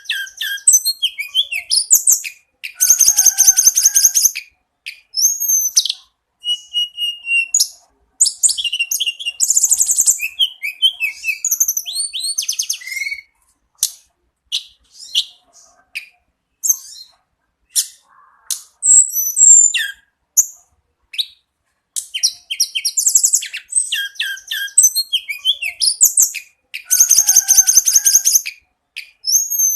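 Tledekan gunung songbird singing loudly and continuously: bursts of rapid, high trills mixed with short whistled and chattering notes, broken by brief pauses, the same trilled phrase coming back near the end.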